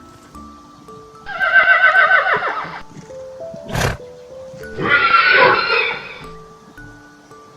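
Horse whinnying twice, each a loud cry that falls in pitch, with a brief sharp noise between them, over light background music.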